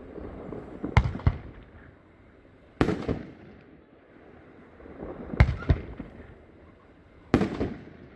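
A 9-shot consumer fireworks cake, Star Spangled Salute, firing single shots about two seconds apart: four loud bangs, each trailing off into a rolling echo.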